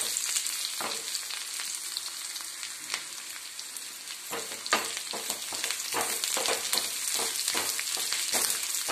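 Sliced onion and garlic cloves sizzling in oil in a kadai, with a spatula scraping and stirring against the pan. The strokes come thick and fast from about halfway through.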